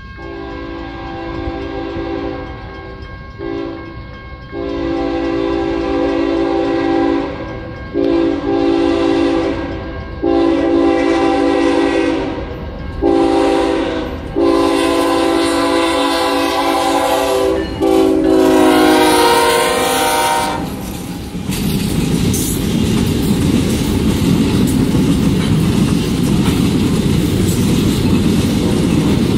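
A light-engine move of CSX diesel locomotives approaching with the lead unit's air horn sounding a series of blasts of uneven length, growing louder and dropping in pitch as it passes. Then the locomotives rumble by, with wheels clattering over the rails.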